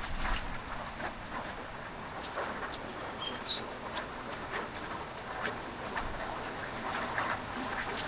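Heavy rain falling steadily, with scattered sharp drop hits on nearby surfaces. About three and a half seconds in there is one brief high chirp.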